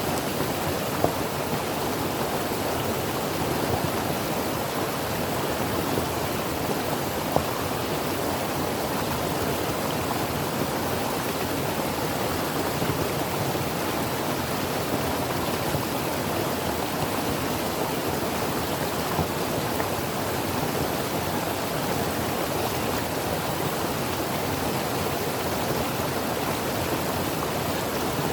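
Creek water flowing over rocks, a steady rushing with a few brief louder splashes.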